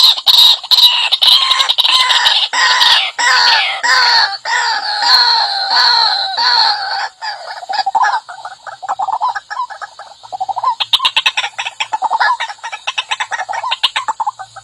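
White-breasted waterhen calling: a loud run of repeated croaking, pitched notes, a few a second at first, then quickening into a faster stutter of short notes about halfway through.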